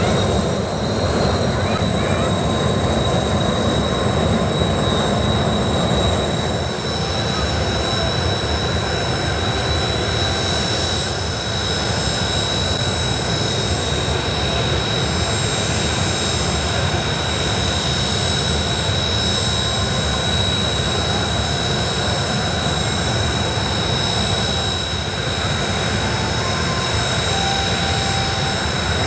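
Blue Impulse Kawasaki T-4 jet trainers idling on the ramp, their F3 turbofan engines giving a steady high turbine whine over a low rumble, shortly before engine shutdown.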